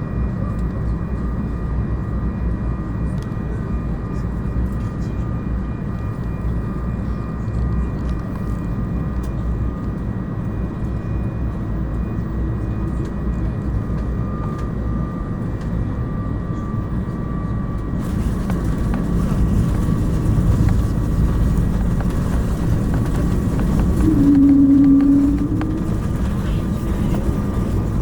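Airbus A220 cabin noise: its Pratt & Whitney PW1500G engines and the airflow make a steady low rumble, with faint steady whines. About eighteen seconds in, a hiss widens and grows louder. A brief, louder hum comes a few seconds before the end.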